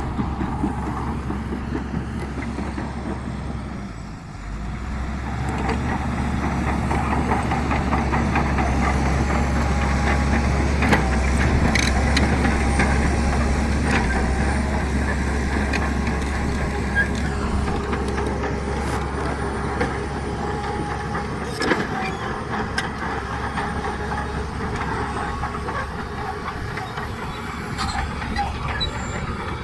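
Heavy diesel earthmoving machinery running steadily under load, its engine dipping briefly about four seconds in, with a few sharp metallic clanks.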